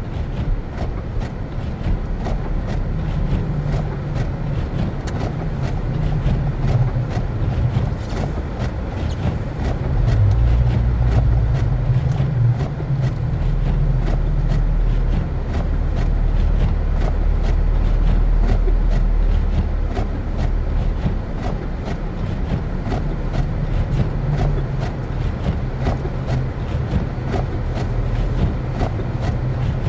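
Car driving on snowy streets: a steady low rumble of engine and tyres that swells and eases, with many faint clicks.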